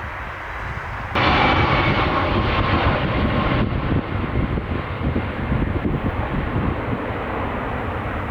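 Boeing 747 jet engines running loud. The noise jumps abruptly louder about a second in, with a faint steady whine over it, and its higher part drops away about three and a half seconds in.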